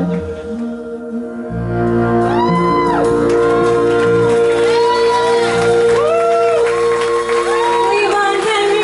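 Live indie folk band playing an instrumental stretch of a song: a steady held note under short melody phrases that slide up and down. The low end thins out at the start and the bass comes back in about a second and a half in.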